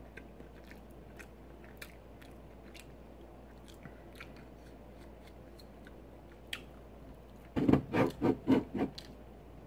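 Close-up chewing and mouth noises while eating, heard as faint scattered clicks. Near the end comes a short, louder, muffled mumble.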